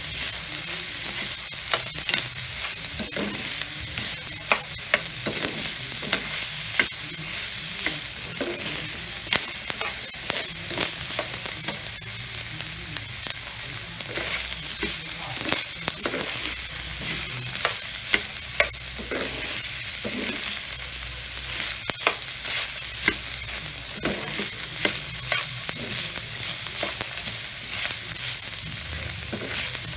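Ground beef, black beans and corn sizzling in a wok, with a steady frying hiss, while a spatula stirs and tosses them, scraping and tapping against the pan at irregular moments.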